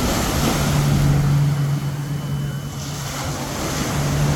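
Surf on a beach with wind on the microphone, under a steady low motor drone that fades for a moment in the middle and comes back.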